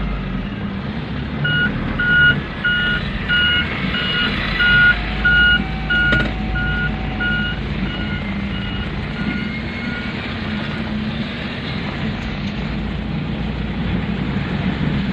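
Truck reversing alarm beeping steadily, a little under twice a second, over a running truck engine; the beeps fade away and stop a few seconds before the end.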